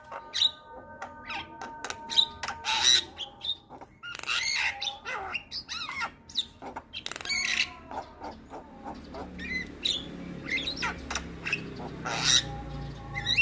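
Javan myna singing a busy, varied song of rapid clicks, short whistled notes that glide up and down, and harsh grating squawks.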